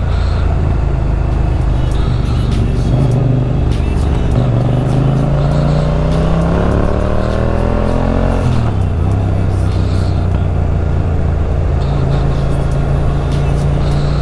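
Motorcycle engine under way: running steadily, then from about three seconds in its revs climb for some five seconds and drop sharply, as in accelerating and then shifting or rolling off, before running steadily again.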